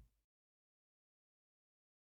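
Near silence: a faint low hum that cuts off a fraction of a second in, then complete digital silence.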